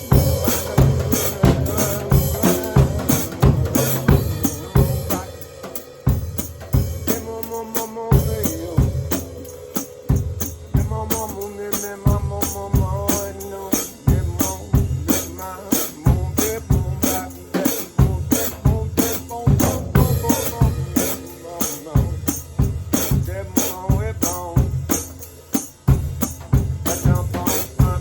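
Drum kit played solo in a dense, improvised groove, with bass drum and snare hits following each other quickly.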